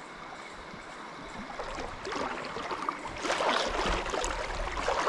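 River water running, a steady rush that grows louder and more irregular from about two seconds in, with sloshing splashes and a low rumble around the middle.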